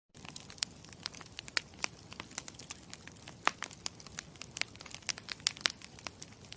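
Campfire crackling: a steady low hiss of burning wood with frequent sharp, irregular pops and snaps.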